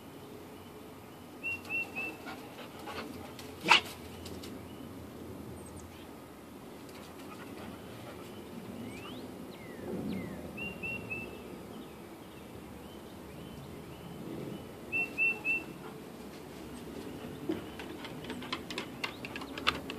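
A small bird repeating a quick three-note chirp several times, with a single sharp click about four seconds in.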